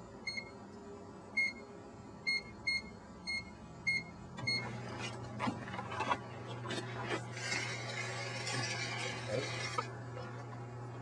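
Microwave oven keypad beeping about seven times as the time is entered, then the oven starting up about four and a half seconds in with a steady low hum. Irregular crackling and a stretch of hissing follow from the lightbulb inside.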